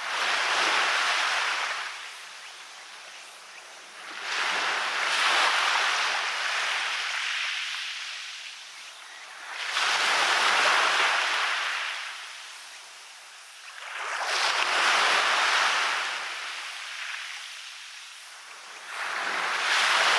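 Waves breaking and washing up onto a beach. There are five surges, about four to five seconds apart, each swelling quickly and then fading over a couple of seconds.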